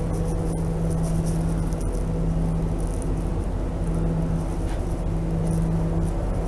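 Steady low drone of the narrow-gauge train heard inside its passenger coach, a constant low hum with faint rattling of the coach fittings.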